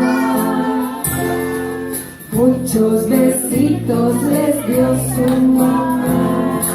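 Voices singing a children's song over instrumental accompaniment.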